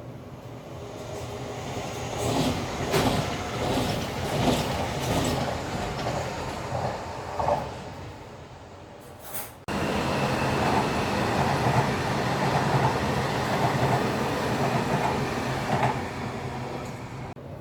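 Train running past, wheels knocking in a regular rhythm over rail joints. About ten seconds in, it cuts abruptly to a louder, steadier train rumble with a faint high whine.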